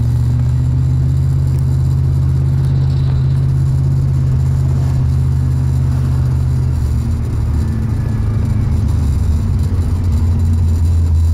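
Ford Mustang engine running while driving, heard from inside the cabin: a steady low drone that drops in pitch and turns rougher about seven seconds in.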